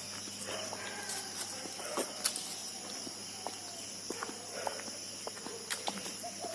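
Steady high chorus of insects, typical of crickets, with scattered light footsteps and small clicks.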